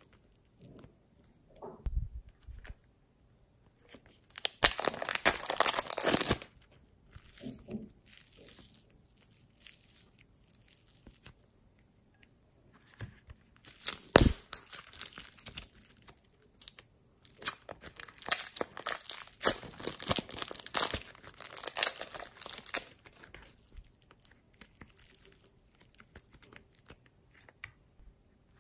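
Slime being squeezed, stretched and mixed by hand: crackly, popping squishes in two longer spells, with quieter rustling between and one sharp click about 14 seconds in.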